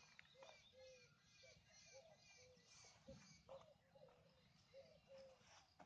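Faint birds calling: a short note repeated about twice a second, with quicker high chirps through the first half.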